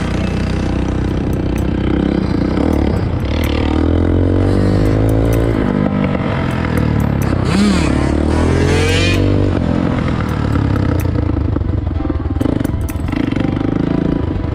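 Bashan Storm 250 dirt bike engine running, its pitch rising and falling as the throttle is opened and closed, most clearly about four to nine seconds in, with some light clatter.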